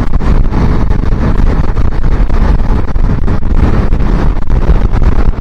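Heavy wind buffeting on the microphone of a motorcycle under way, with the rumble of the small Suzuki Inazuma 250 running beneath it.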